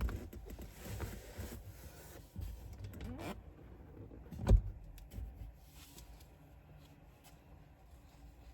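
Scattered clicks and rustling with a short rising creak, then one loud, sudden thump about halfway through, followed by a faint low hum. The car's engine is not yet running.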